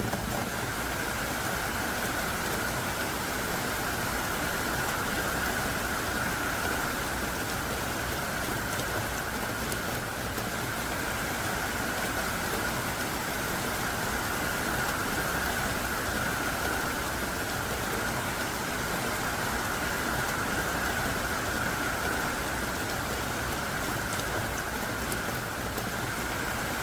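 Heavy downpour of large raindrops falling hard and steadily, an unbroken rushing hiss.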